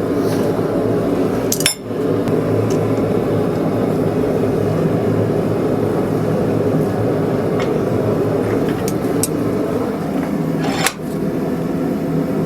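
Steady, loud running of blacksmith shop equipment, with two sharp clicks, one about two seconds in and one near the end, each followed by a brief drop in level.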